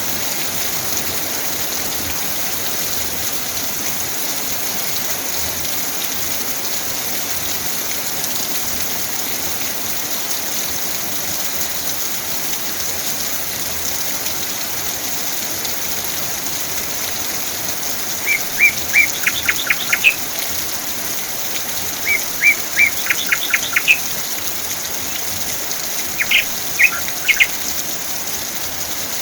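Steady rain falling. In the second half a bird calls three times, each time a quick run of short, sharp chirps.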